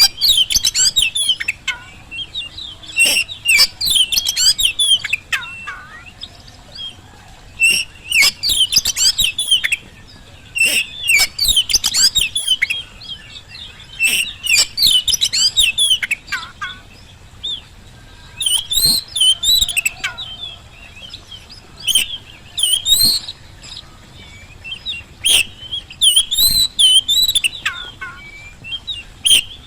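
Oriental magpie-robin singing in full voice: phrases of quick, varied whistles and sharp clicks, a phrase every couple of seconds with short pauses between.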